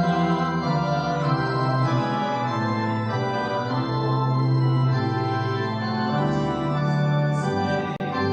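Church organ playing sustained chords over a slowly moving bass line, with a momentary dropout just before the end.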